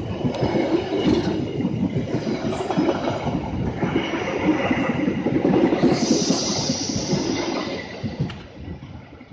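A train passing on the rails, a dense rumble of wheels and cars with a high thin squeal about halfway through, fading away near the end as it goes by.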